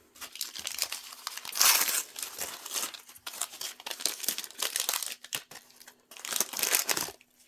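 Thin plastic packaging crinkling and rustling as it is handled and pulled apart, in bouts, loudest about two seconds in and again near the end.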